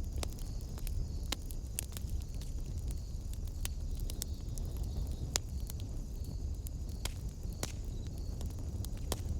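Wood fire burning in a fireplace, crackling with irregular sharp pops over a low steady rumble of the flames. One pop about halfway through is louder than the rest.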